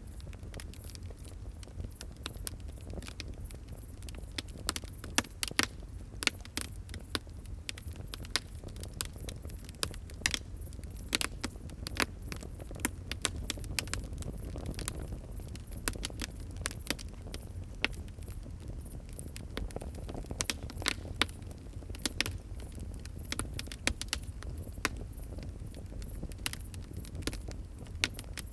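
Wood fire crackling: many sharp irregular pops and snaps, several louder ones standing out, over a steady low rumble of the flames.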